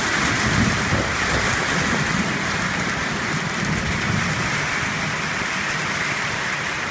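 Heavy rain pouring steadily in a thunderstorm, with a low rumble underneath.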